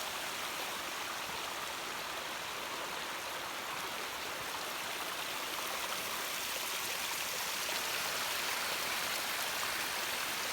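Snowmelt stream running steadily: an even hiss of flowing water, a little louder in the second half.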